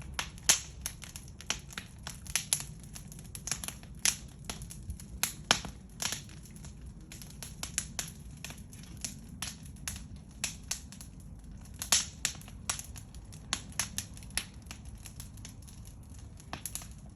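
Wood fire crackling: irregular sharp pops and snaps, several a second, some much louder than the rest, over a steady low rumble.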